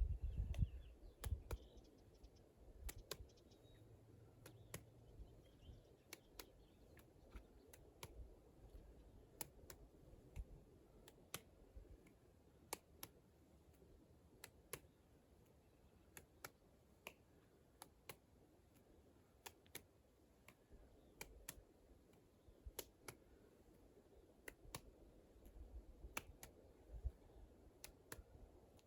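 Hands slapping and catching a small 5-inch D-Ball rubber medicine ball in a toss-and-slap drill: sharp, evenly spaced slaps, about five every four seconds.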